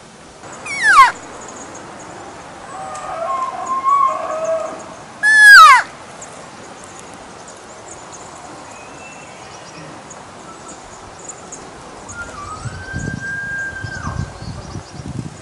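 Elk calling: two loud, steeply falling squeals, about a second in and again around five and a half seconds in, with a softer wavering call between them and a longer even high whistle near the end.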